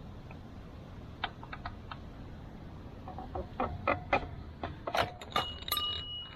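Irregular clicks and metallic clinks of hand tools and parts being handled while working on a motorcycle, growing busier in the second half; one strike near the end rings on briefly.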